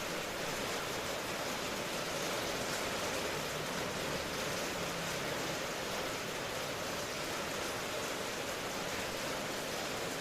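Steady, even rain hiss.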